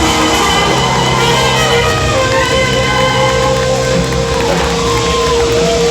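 A live band playing loud music, dense and unbroken, with long held notes over a steady low tone.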